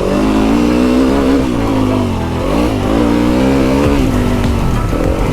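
Enduro motorcycle engine revving on a muddy motocross track, its pitch climbing and dropping several times as the rider opens and closes the throttle.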